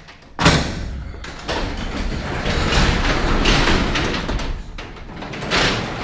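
A large door being opened: it starts suddenly about half a second in and keeps up a loud, rough rattle for about five seconds.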